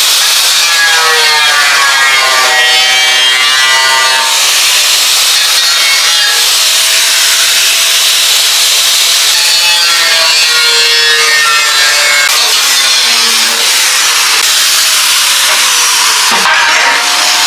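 Power tool cutting through the steel wall of an empty propane tank: a loud, continuous cutting hiss with a whine whose pitch wavers as the tool works through the metal.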